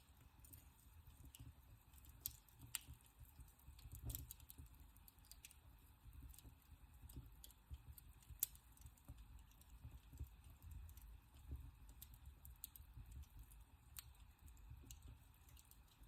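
Wood fire burning in a fireplace, crackling faintly with scattered sharp pops over a low, steady rumble of the flames.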